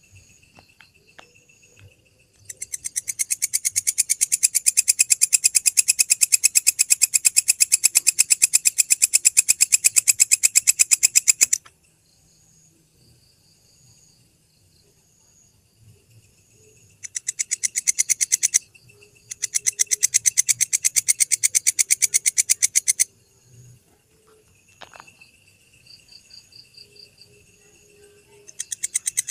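A belalang (grasshopper) singing in rapid, evenly spaced high-pitched pulse trains. A long bout of about nine seconds starts a couple of seconds in, two shorter bouts come a little past the middle, and another starts near the end. Between bouts, fainter steady trills of other insects can be heard.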